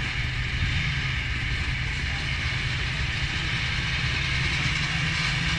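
A pack of classic motocross bikes running together, their engines blending into one steady mass of engine noise.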